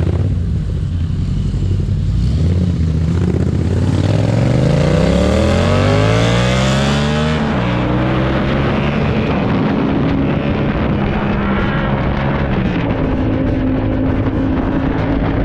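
Yamaha MT-07's parallel-twin engine through an aftermarket exhaust, accelerating: the pitch climbs for about three seconds, drops sharply at an upshift about halfway through, then holds steady at a lower pitch with another small step down near the end, over wind rush.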